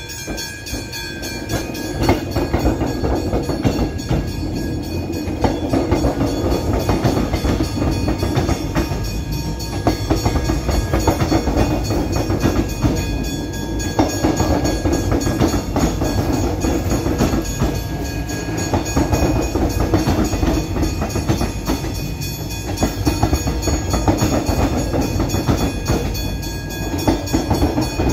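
X'Trapolis electric suburban train arriving and rolling past close by, a continuous loud rumble and wheel clatter that swells and dips as the carriages go over the crossing. Level crossing alarm bells ring steadily over it.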